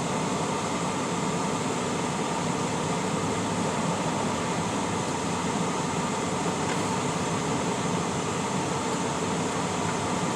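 Steady engine and road noise heard inside a semi-truck's cab, an even hum and hiss that does not change.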